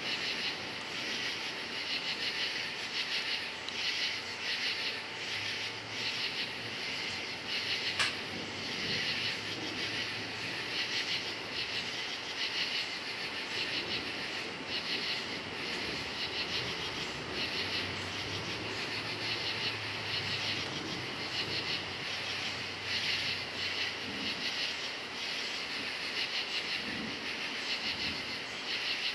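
A chorus of crickets chirping in fast, shimmering pulses. A low rumble of distant thunder comes in twice: around six seconds in, and again from about eighteen seconds in. A single sharp click sounds at about eight seconds.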